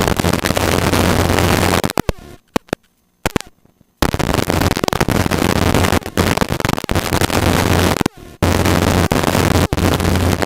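Helicopter in flight: a steady engine-and-rotor drone with a low hum and a rushing noise. It drops out almost to silence twice, for about two seconds near the start and briefly near the end, then comes straight back.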